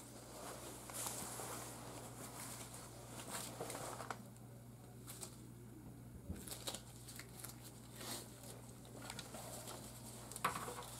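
Faint small clicks and rustles of hands handling wire connectors and plastic parts while refrigerator control components are wired in, over a steady low hum.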